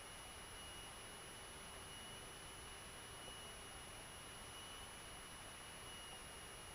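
Faint, steady electrical hiss with a thin, constant high whine, the kind of line noise on a recording taken from a headset or intercom feed. No engine or wind is heard.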